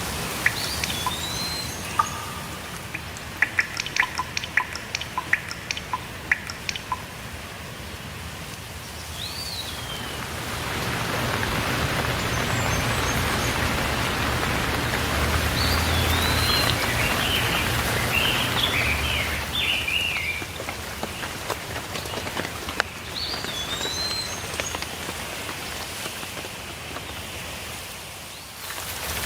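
Steady rainfall with sharp drops of water dripping, the rain swelling heavier for about ten seconds midway and then easing. Small birds chirp in short calls now and then over the rain.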